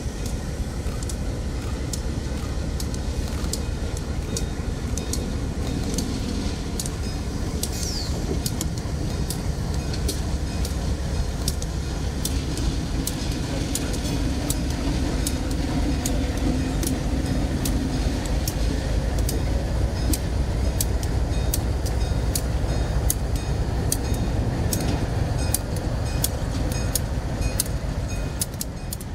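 Freight train rolling past: a steady low rumble with a regular, rapid clicking of wheels over rail joints throughout, and a low drone swelling in the middle.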